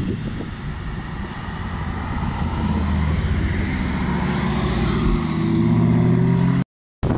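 Porsche 911 Targa's flat-six engine driving past close by. Its note grows louder and rises slightly in pitch over the second half, then cuts off suddenly near the end.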